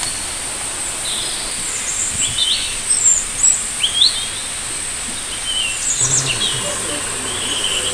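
Birds chirping in short, rising calls, several in quick succession, over a steady high-pitched hum in the background.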